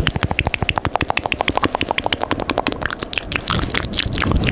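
ASMR mouth sounds: a fast, steady run of wet tongue and lip clicks close to the microphone, about ten a second.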